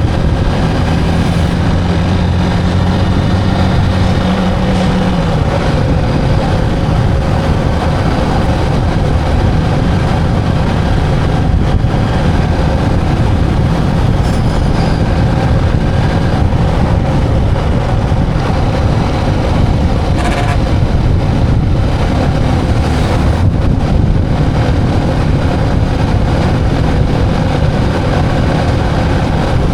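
Motorcycle engine running on the move under steady wind and road noise, with a low engine tone that drops away about five seconds in.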